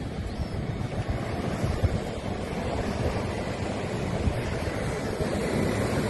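Ocean surf washing steadily, with wind buffeting the microphone in low, gusty rumbles.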